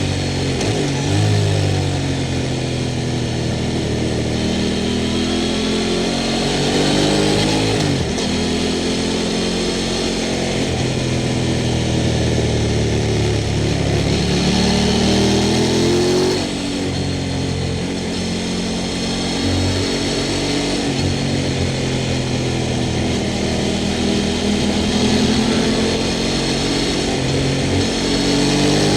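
Sport motorcycle engine running through a Montezemolo aftermarket exhaust. The engine note rises and falls repeatedly with the throttle, with a sudden drop about halfway through.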